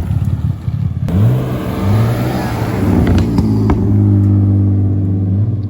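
A car engine running, then rising in pitch about a second in and settling to a steady drone, as when a car accelerates and then holds speed. A few sharp clicks sound near the middle.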